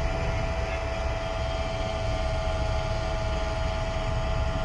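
Smoke machine's air pump humming steadily as it pushes smoke into the engine intake to find a vacuum leak, with wind rumbling on the microphone.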